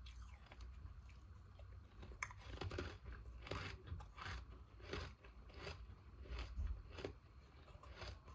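Ice being bitten and chewed close to the microphone: a run of sharp crunches, about two a second, starting about two seconds in.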